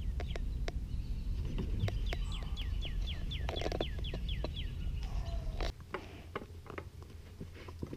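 A small bird's rapid trill of about a dozen quick falling notes, over a steady low rumble. Near the end the rumble drops away, leaving light clicks and taps of a puppy gnawing at a wooden table leg.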